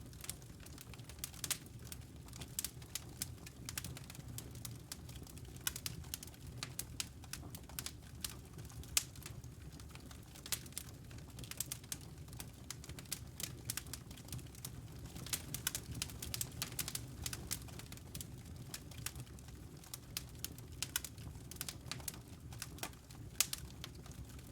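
Fire in a fireplace crackling, with frequent irregular pops and snaps over a low steady rumble of the flames.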